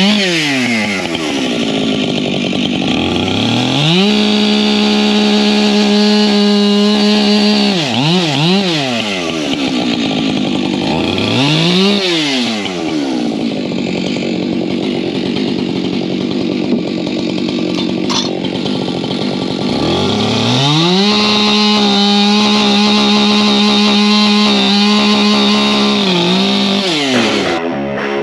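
Husqvarna professional chainsaw engine running hard: it revs up to full throttle and holds there for several seconds, drops back with a few quick throttle blips, then idles lower before running up to full revs again for about five seconds and dropping off near the end.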